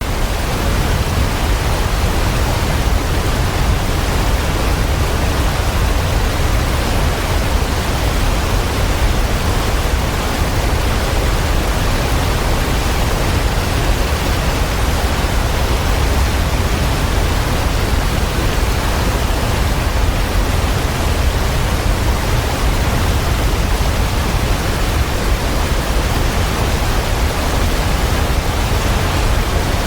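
Waterfall: a steady, unbroken rush of falling water with a strong low rumble.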